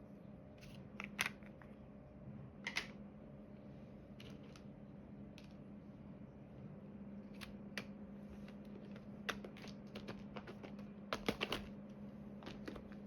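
Scattered small clicks and taps of diamond painting: the drill pen picking up resin drills and pressing them onto the canvas. A quick run of several clicks comes near the end, over a steady low hum.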